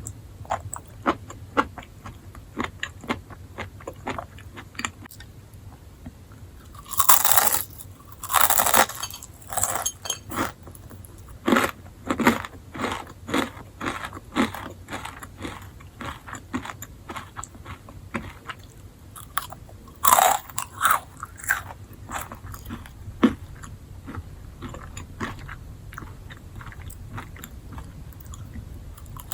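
A person chewing enoki mushrooms: a run of small, crisp, crunchy clicks, with louder crunching bites about seven to nine seconds in, around twelve seconds and again about twenty seconds in.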